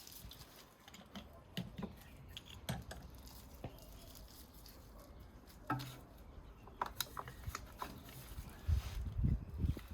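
Scattered light clicks and taps of hands working ignition coils and their plug connectors on a BMW E90 318i engine, with a few dull low thumps near the end.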